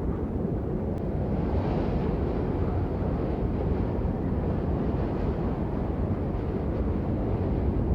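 Steady rain, an even deep rushing noise, swelling briefly brighter about two seconds in.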